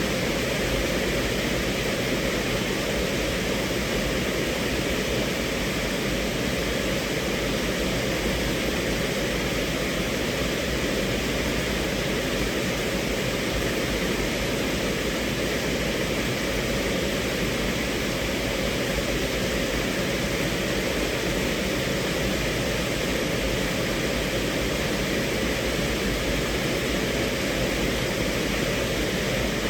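Steady rain on a car's roof and windows, heard from inside the cabin as an even, unbroken rush.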